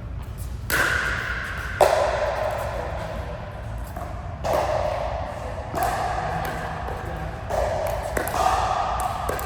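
A rally of sharp racket or paddle strikes, about six hits spaced one to two and a half seconds apart, each trailing a lingering ring.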